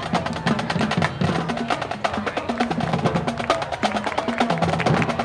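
High school marching band playing, its drumline to the fore with rapid drum hits over moving low notes.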